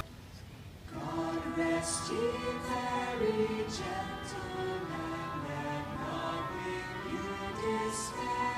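A choir singing with instrumental accompaniment, starting about a second in after a brief drop in level.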